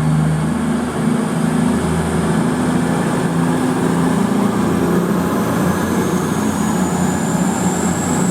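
A train passing through the station: a steady, loud rushing noise with a low hum. In the last couple of seconds a thin high whine comes in and rises in pitch.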